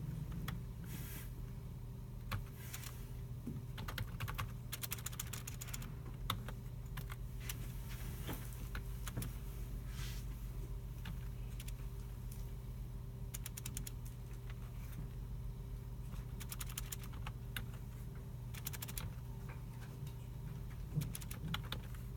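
Scattered computer keyboard typing in short runs of rapid key clicks, with occasional single mouse clicks, over the steady low hum of the room's computers and ventilation.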